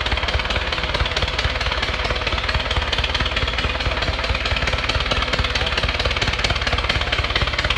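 A machine running with a rapid, steady rapping clatter.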